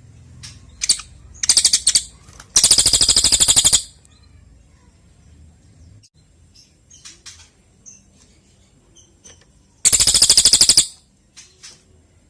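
Cililin (crested jay) calling: two loud, dry rattles of rapid clicks, each about a second long, one near the start and one near the end, with short chirps and clicks between them.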